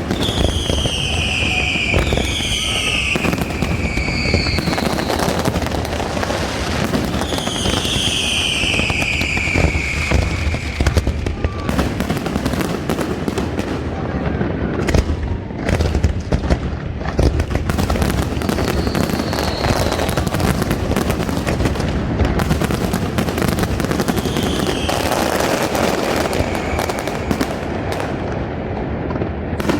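Fireworks going off continuously: bangs and crackling bursts, with several high whistles falling in pitch, the longest near the start and about a third of the way in.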